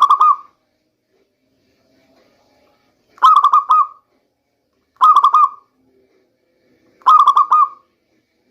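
Zebra dove (local perkutut) cooing: four short bursts of quick, rolling notes, a couple of seconds apart.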